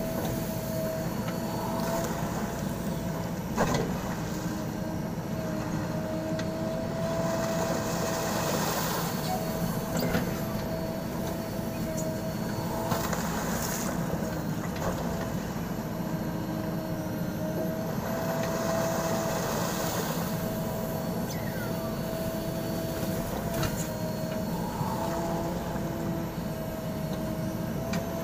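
JCB backhoe loader's diesel engine running steadily under work, with a steady whine that wavers slightly in pitch over a low rumble. A few sharp knocks come through, about four seconds in, around ten seconds and near the end.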